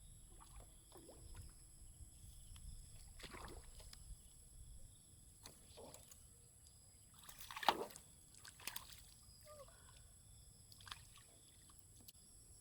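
Faint sloshing and splashing of water in a few short bursts, the loudest about seven and a half seconds in, over a steady high-pitched insect chirring.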